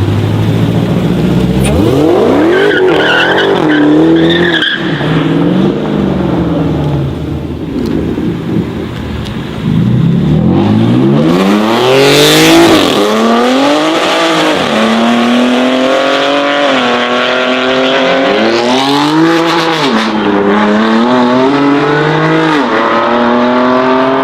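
High-performance car engines accelerating hard through the gears: two runs, one from about two seconds in and a louder one from about ten seconds in, each with the engine pitch climbing and dropping back at every upshift.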